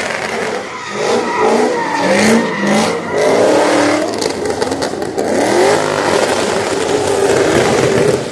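Car engine revving hard toward redline, again and again in rising and falling sweeps, during a brake-stand burnout with the tires spinning.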